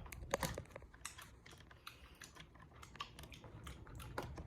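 Crawfish shells crackling and clicking as they are twisted and peeled by hand, close to the microphone: a quiet, irregular run of sharp little clicks.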